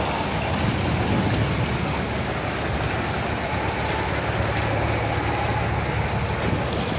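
Heavy rain and flowing floodwater make a steady, dense rushing noise, with a low steady hum underneath.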